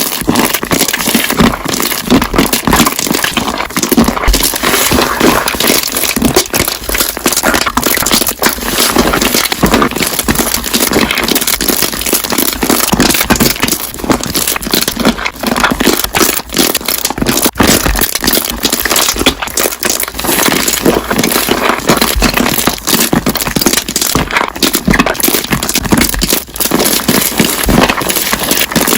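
Slime being pressed and worked so that trapped air bubbles pop in quick, irregular crackling bursts, the dense, loud 'construction site' style of slime bubble popping.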